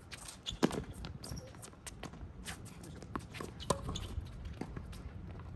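Tennis play: a sharp racket-on-ball strike about half a second in, then a scatter of footsteps and light clicks on the court, over a low wind rumble on the microphone.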